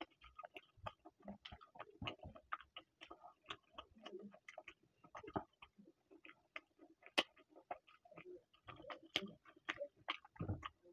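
Close-up eating sounds of a man chewing a mouthful of rice and chicken curry: a quick, irregular run of wet lip smacks and mouth clicks, with one sharper click about seven seconds in.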